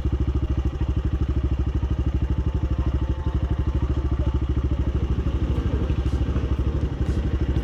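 Small-capacity motorcycle engine running steadily, with an even, fast pulsing beat.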